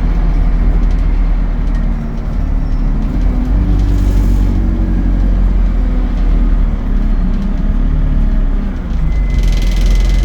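ADL Enviro 200 single-deck bus running, a steady low engine drone whose pitch wavers up and down. A hiss of higher noise joins it near the end.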